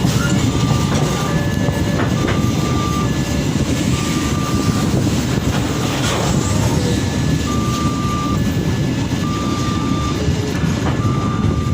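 Steady rumble of a moving passenger train's economy carriage on the rails. Short faint high-pitched tones recur about once a second over it.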